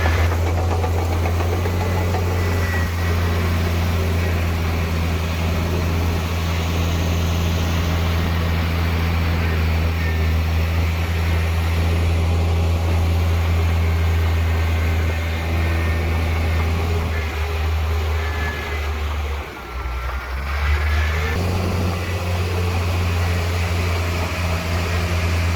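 Heavy diesel engine of earthmoving machinery running steadily at a low, even note, with a brief dip and a slight change in the engine note about twenty seconds in.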